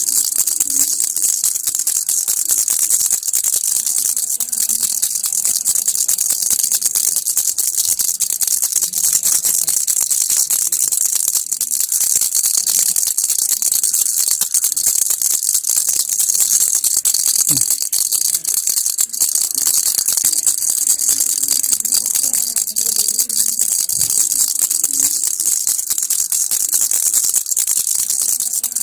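Baby rattle toy shaken without pause, its loose beads making a steady, fast, hissing rattle.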